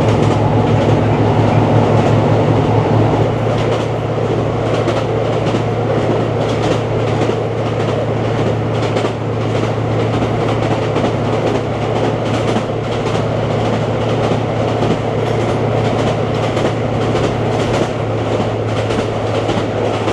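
Inside the carriage of a diesel passenger train under way: a steady low engine drone, with the wheels clicking over the rail joints in a regular rhythm.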